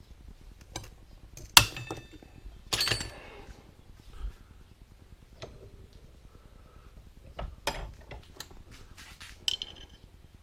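Small steel parts clinking and clanking as they are handled and set down: scattered sharp metallic knocks, the loudest about one and a half seconds in with a short ring, a brief rattle soon after, and a few more clinks near the end.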